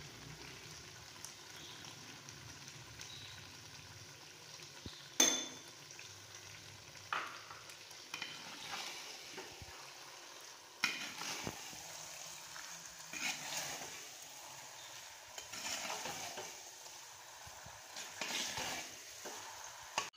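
Potatoes frying in oil and spices with a steady soft sizzle, while a metal slotted spatula stirs and scrapes through them in irregular strokes from about five seconds in.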